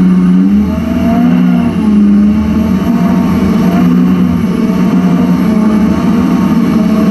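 Racing jet boat's engine running hard at high revs, its pitch rising and falling as the throttle is worked, with a short dip in loudness under a second in and again near two seconds in.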